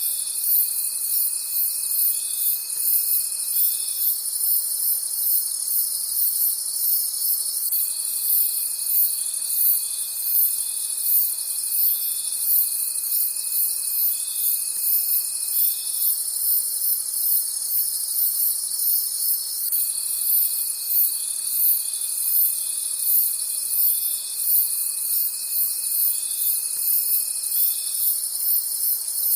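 Night chorus of crickets chirping in a dense, high-pitched, rapidly pulsing drone. A lower, steady insect trill comes in and out, running for several seconds at a time with pauses of a few seconds between.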